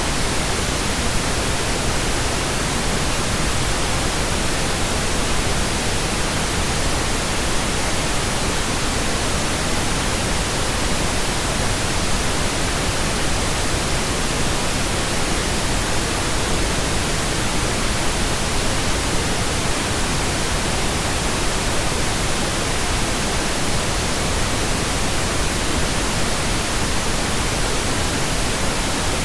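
Steady computer-generated pink noise: an even, unchanging hiss.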